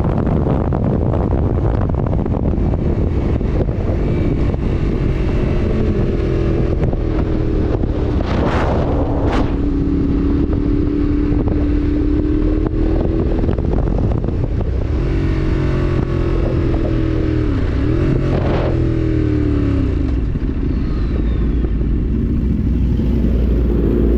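Motorcycle engine running on the road under heavy wind noise on the microphone, its pitch rising and falling several times as the rider changes speed.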